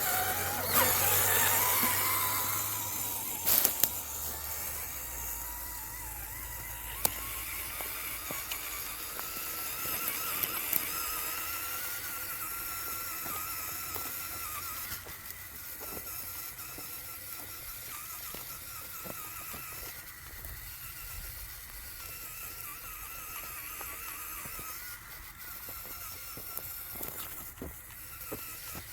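Whine of an RC scale crawler's electric motor and gears as it drives. The pitch falls over the first couple of seconds, then wavers up and down with the throttle. Scattered sharp clicks and knocks run through it.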